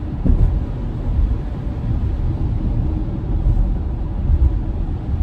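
Steady low road and tyre rumble heard inside a Tesla's cabin while it drives on a wet road.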